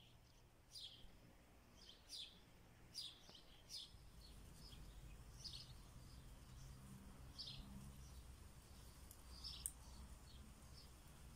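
Faint birds chirping: short, high calls at irregular intervals, over a low background rumble that grows slightly about four seconds in.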